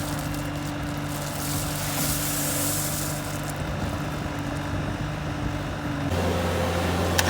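Diesel engine of heavy construction equipment running steadily, its note changing about six seconds in, with one sharp knock near the end.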